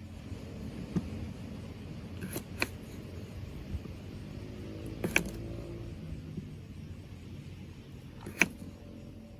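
About five sharp clicks and knocks of objects being handled, the loudest near the end, over a steady low rumble.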